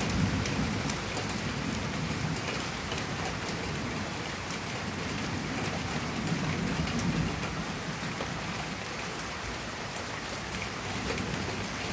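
Heavy rain pouring down steadily as the storm opens up, with a low rumble that swells and fades a few times underneath.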